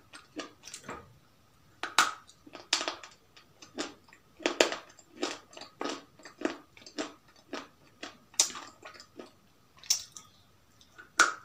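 Close-up crunchy biting and chewing: a person biting pieces off a brittle white stick, making a run of short crunches a few times a second, with several sharp, louder snaps among them.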